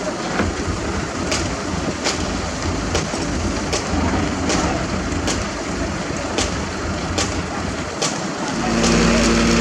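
Heavy construction machinery running with a steady noisy rumble and a regular sharp clank a little more than once a second. Near the end it gives way to a small engine running steadily.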